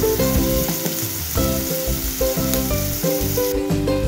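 Shrimp and chopped red onion sizzling as they fry in a pan, a steady hiss, under background music with a stepping melody.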